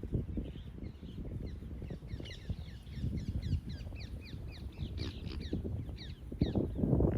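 Wind buffeting the microphone with a low rumble, while birds call in quick, short, falling notes through the middle; a louder buffet of wind near the end.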